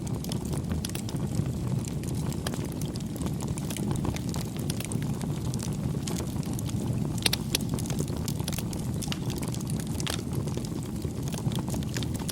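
Wood fire crackling and popping, with sharp snaps scattered through it and a cluster of louder pops about seven seconds in, over a steady low rumble.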